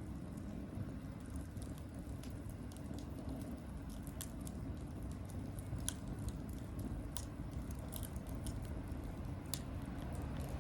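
Wood campfire burning, crackling with scattered sharp pops over a low steady rumble, the loudest pop about six seconds in.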